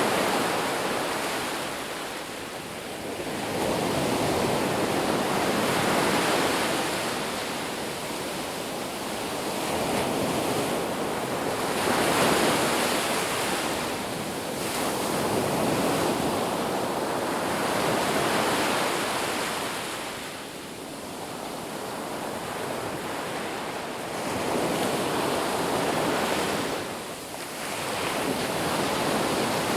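Ocean surf breaking on a beach, the wash of the waves swelling and falling away every few seconds.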